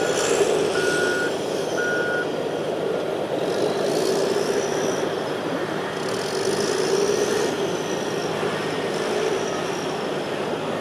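Heavy diesel equipment running steadily, with a reversing alarm beeping three times in the first two seconds and then stopping. Faint high whines rise and fall above the engine.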